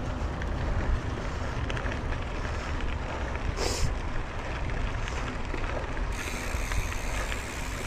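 Wind rumble on the microphone and rolling noise from a mountain bike riding over a dirt trail, with scattered small clicks and rattles from the bike. There is a brief rush of noise about halfway.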